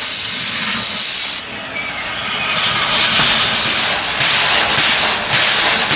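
Steam locomotive releasing steam: a loud hiss that stops sharply about a second and a half in, followed by steady hissing that swells in several surges near the end.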